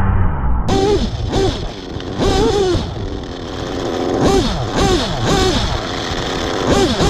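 Nitro RC car engine revving in short bursts, its high pitch rising and dropping away again and again. The sound starts abruptly less than a second in.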